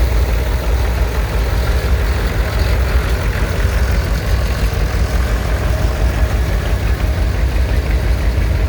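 Allis-Chalmers D17 tractor engine running steadily at low speed as it pulls away, a constant low-pitched throb.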